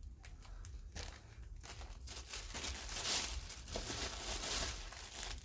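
Plastic packaging crinkling and rustling as it is handled, in irregular bursts that are busiest midway through.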